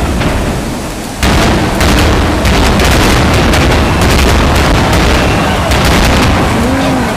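Aerial firework shells bursting in a dense barrage: deep booms layered with many sharp cracks, jumping louder a little over a second in as a fresh volley goes off.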